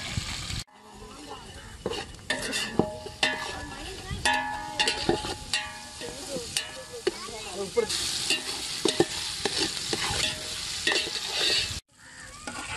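Onions, green chillies and freshly added chopped tomatoes frying in oil in a large aluminium pot, a steady sizzle under the clinks and scrapes of a metal ladle being stirred against the pot, some of the scrapes ringing briefly.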